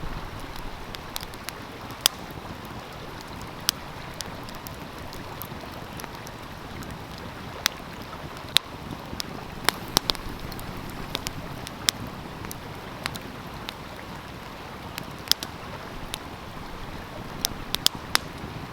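Wood fire crackling, with sharp pops at irregular moments, over the steady rush of a flowing stream.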